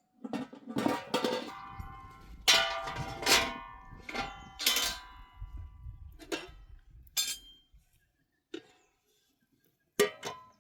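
Metal objects knocked and clanked together, about seven or eight irregular strikes that each leave a ringing metallic tone. The loudest strikes come in the first five seconds.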